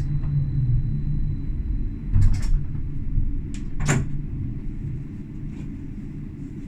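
Tram running, heard from the driver's cab: a steady low rumble with a few sharp knocks and clacks, the loudest about four seconds in. A faint high whine fades out in the first two seconds, and the rumble eases in the second half.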